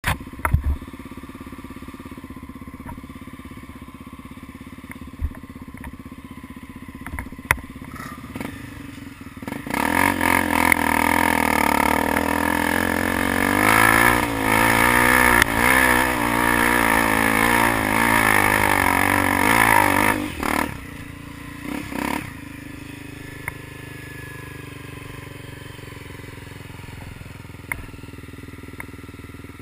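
Honda Tornado trail motorcycle's single-cylinder engine. It runs low and steady at first, with a few knocks. About ten seconds in it turns loud, its pitch rising and falling as it is revved for about ten seconds, then drops back to a quieter steady run.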